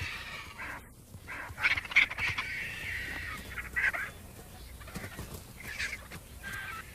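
Birds calling: several separate calls, with the longest run about two seconds in and shorter calls near four and six seconds.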